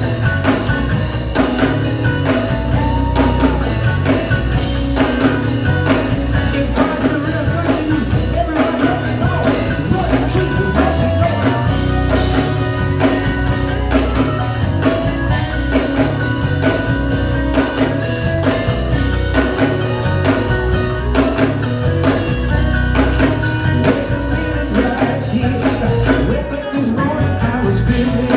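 Live band performing a song: a singer over drum kit and electric guitar, with a steady beat.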